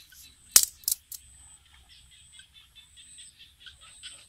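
Birds chirping faintly in a rapid, high run of notes. Two sharp clicks close together about half a second in.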